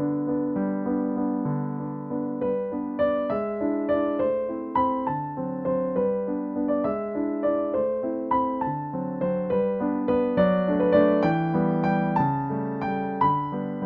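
Background music: a gentle piano melody with chords, notes struck and left to ring.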